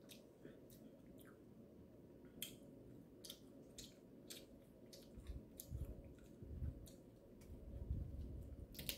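Faint chewing with scattered soft, wet mouth clicks, as crab meat is picked apart by hand and eaten. Low muffled thumps come in the second half.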